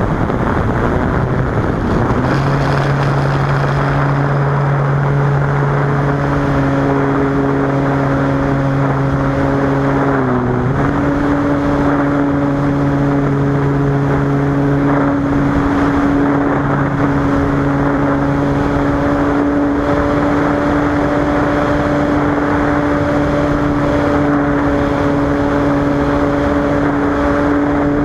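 Cessna 185's piston engine and propeller running steadily under a dense rushing noise; the pitch dips briefly about ten seconds in and then settles again.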